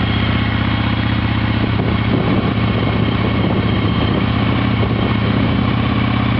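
Yamaha Virago XV750's air-cooled V-twin idling steadily.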